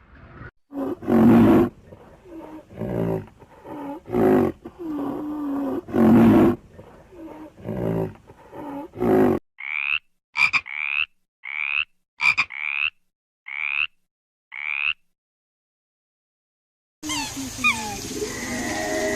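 Lion roaring: a series of loud, deep roars and grunts, one every second or so. This gives way to eight short, identical, higher calls from a different animal, and near the end to a new recording full of quick chirps.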